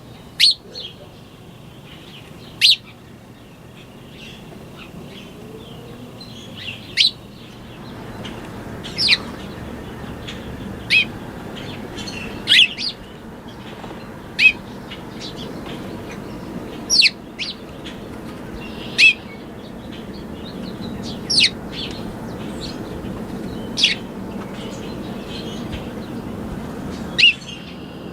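Birds chirping: single sharp, high chirps about every two seconds, over a steady low background rumble.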